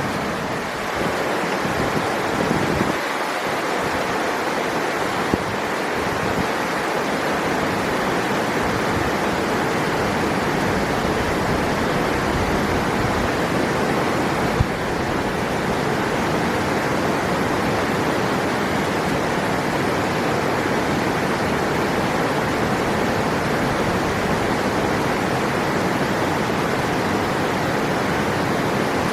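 Steady rush of river water flowing, an even noise without pauses, with a brief sharp click about halfway through.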